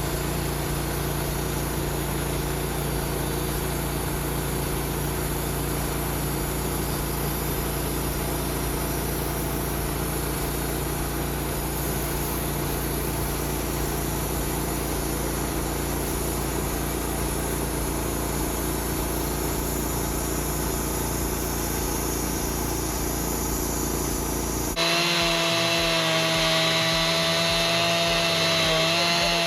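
Sawmill running as it cuts through a large log: a steady mix of engine drone and blade noise through the wood. About 25 seconds in the sound changes abruptly to a clearer engine tone that wavers slightly in pitch.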